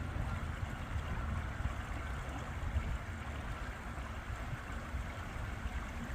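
River water rushing steadily, with an uneven low rumble underneath.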